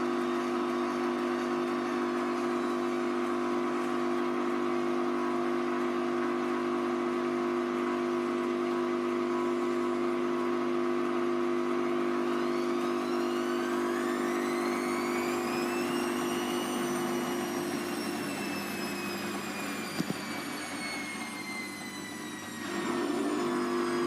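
Hoover Vision Tech VT 914 D22X washing machine running a Mixed 40°C wash, with a steady hum. Partway through, its motor whine rises steeply as the drum speeds up, then slowly falls as the drum slows. The hum fades with a short click and comes back near the end.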